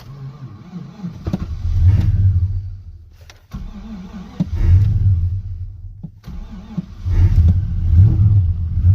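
Starter cranking a pickup truck's engine in extreme cold on a weak, boosted battery, in three long bursts with short pauses between, without the engine catching.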